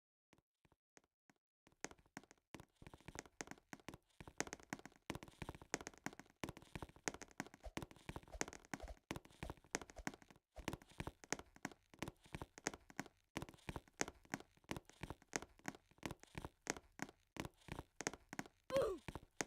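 Faint, rapid, irregular clicking and tapping, several knocks a second, starting about two seconds in, with a brief squeak near the end.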